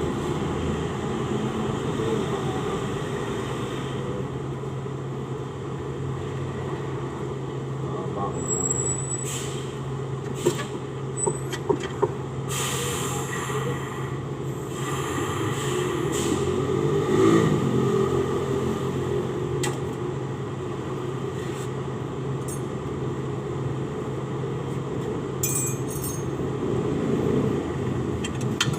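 Steady low hum of workshop background noise. A few sharp metallic clicks come about ten to twelve seconds in, most likely hand tools on the engine as the intake manifold is being unbolted.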